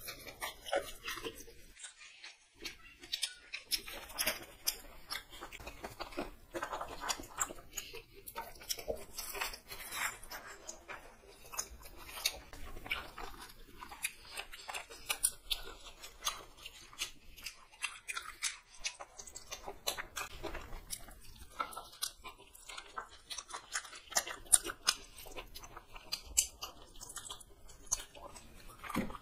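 Two people chewing and biting into fried chicken leg pieces and egg rolls: an irregular, continuous run of small crunches and mouth clicks.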